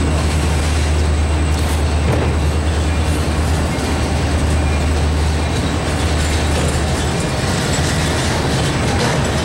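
Freight train rolling past, with a steady low rumble and continuous wheel and rail noise; the low rumble eases about halfway through.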